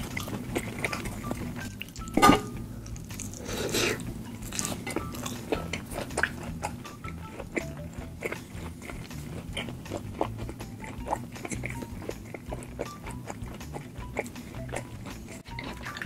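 Close-miked eating sounds: a mouthful of food being chewed, with many small wet mouth clicks and a sharper click about two seconds in.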